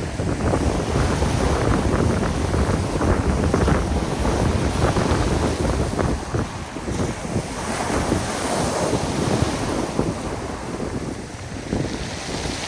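Strong wind buffeting the microphone over sea surf breaking on the shore, a loud rushing noise that surges and eases.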